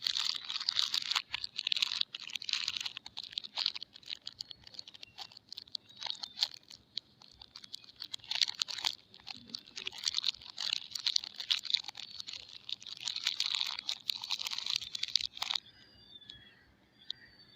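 Crisp crunching and crinkling of soap being unwrapped from its packaging: a dense run of small sharp clicks and crackles that comes in waves and stops about two seconds before the end. A few faint high squeaks follow.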